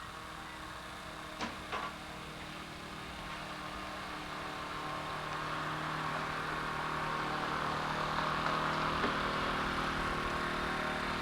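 A passing motor vehicle's engine noise that builds slowly over several seconds and eases a little near the end, over a steady low hum.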